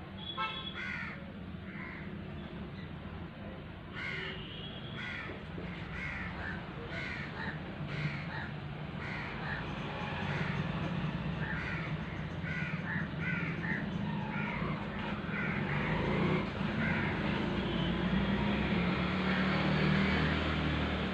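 Birds calling over and over outdoors, short harsh calls about two a second, with a low steady hum underneath that grows louder in the last few seconds.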